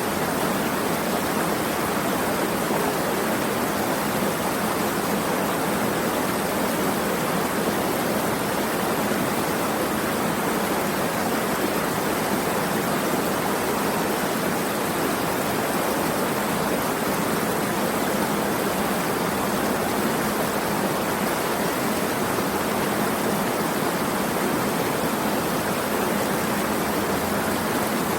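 Running water rushing steadily, an even hiss with no breaks and little deep rumble.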